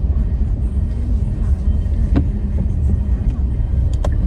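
Car driving on the road: a steady low rumble of engine and tyre noise, with a few short clicks about two seconds in and near the end.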